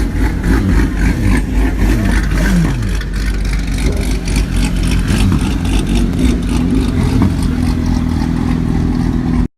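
A car engine revved several times, its pitch falling back after each blip, then running at a steady idle. The sound cuts off suddenly near the end.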